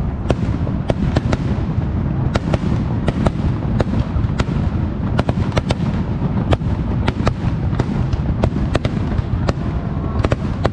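Aerial fireworks display: a continuous deep rumble of shell bursts, with many sharp crackles and bangs several times a second.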